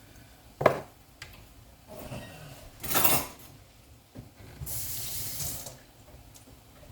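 Kitchen handling while seasoning a pot: a sharp knock of a container or pot, a light click, then two short hissing rushes, the second lasting about a second.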